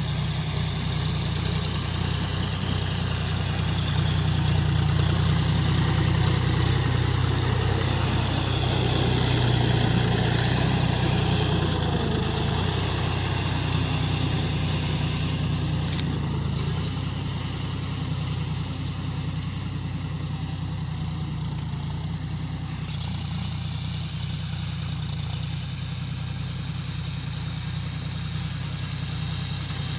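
Tractor engine running steadily under load while pulling a cultivator, a low hum that swells a little a few seconds in and then eases.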